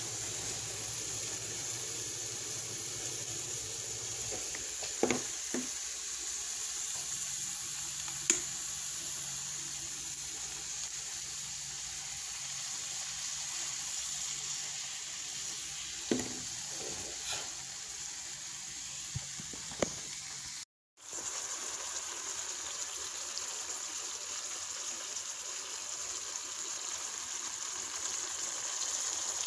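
Shrimp sizzling in melted butter in a frying pan: a steady hiss with a few short, sharp clicks. The sound cuts out for a moment about two-thirds of the way through.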